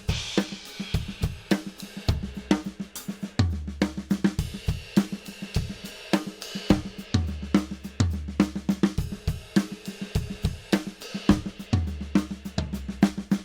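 Acoustic drum kit played in a right-left-left grouping of three, the right hand moving around the hi-hat, snare and toms while the left hand stays put. A dense, even run of strokes, with deep low drum hits ringing out several times.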